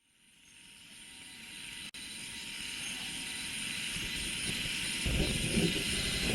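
Rice-field ambience fading in from silence: a steady high drone of cicadas and other insects, with a low, uneven rumble growing louder in the second half.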